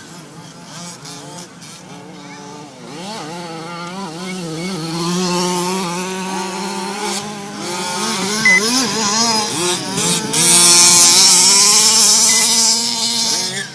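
Several radio-controlled race cars' small engines running and revving around a track, their pitch rising and falling as they speed up and brake. The sound grows louder from about ten seconds in as the cars pass close.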